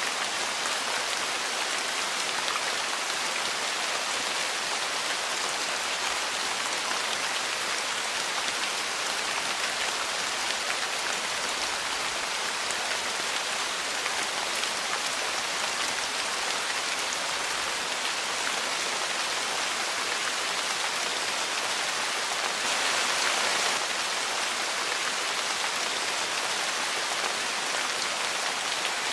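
Steady rain on a porch, a dense, even patter that swells briefly a little over three quarters of the way through.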